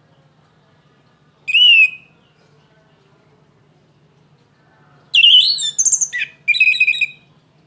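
Young orange-headed thrush (anis merah) singing: a single loud whistled note about one and a half seconds in, then a two-second run of varied, quickly changing notes near the end, over a faint steady low hum.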